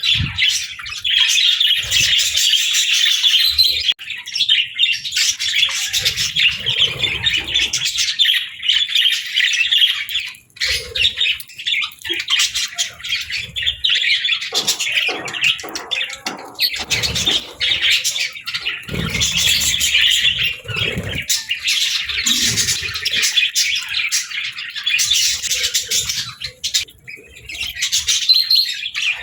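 Pet budgerigars chattering and warbling continuously, with chirps and the odd squawk. Some knocks and thumps come through in the middle.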